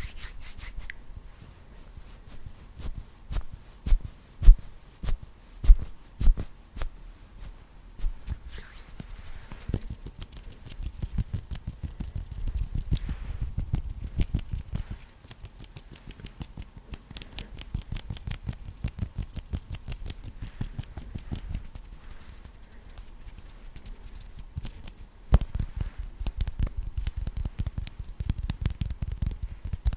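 Fast ASMR hand sounds close to a microphone: fingers fluttering and tapping in a dense run of quick clicks, with a few louder knocks in the first several seconds and another sharp one near the end.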